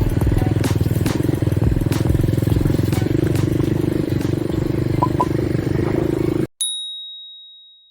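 Dirt bike engine running steadily while riding, with scattered knocks and rattles. It cuts off abruptly about six and a half seconds in, and a single high ringing tone follows and fades away.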